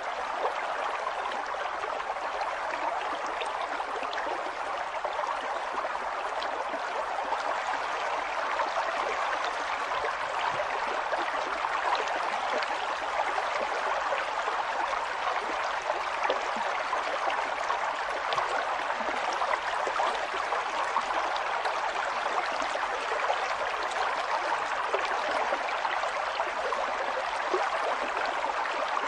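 River water flowing and splashing steadily, a continuous rush with many small gurgles.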